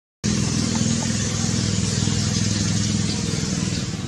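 A motor vehicle engine running steadily, starting abruptly after a brief dropout and easing slightly near the end.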